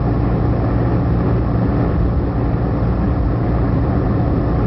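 Heavy truck engine running steadily on the road, an even drone with road traffic around it.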